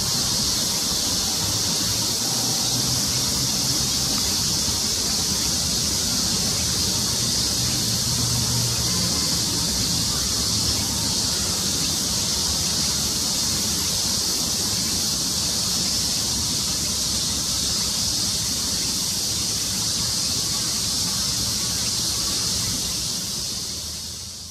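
Two cats purring together, a low steady rumble, under a loud, steady high-pitched drone. The sound fades out near the end.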